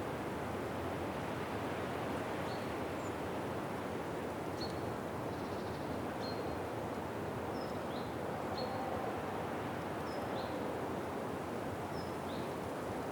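Outdoor ambience: a steady rushing noise with a small bird giving a dozen or so short, high chirps, one every second or so.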